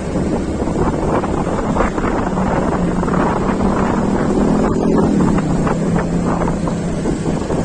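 Heavy wind noise on the microphone while travelling by road, over the steady hum of a vehicle engine that grows a little stronger from about two and a half seconds in.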